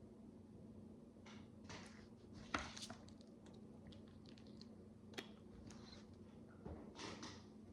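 Faint clicks and short rustles of micro building bricks being handled and pressed together, with a sharper click about two and a half seconds in and another about five seconds in, over a faint steady hum.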